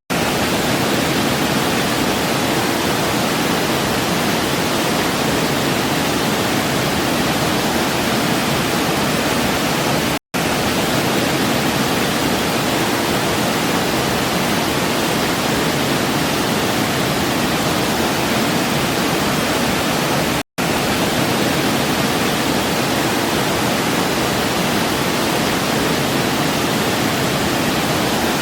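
Waterfall cascade rushing steadily, an even hiss of falling water. It cuts out to silence for a split second twice, about ten and twenty seconds in.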